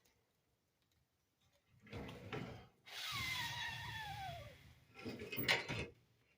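Fireplace glass door being moved on its hinges: a squeak falling steadily in pitch for about a second and a half, then a few knocks and clicks as the door is set slightly open for extra air.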